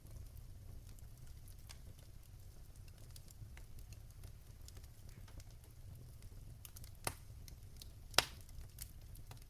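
Fire crackling in a fireplace: scattered small snaps over a low steady rumble, with two louder pops near the end, the second the loudest.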